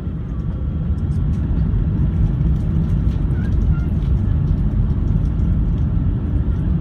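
Cabin noise inside an Airbus A380: a deep, steady rumble from the Rolls-Royce Trent 900 engines and the airframe. It grows louder over the first couple of seconds and then holds, typical of the engines spooling up for the takeoff roll.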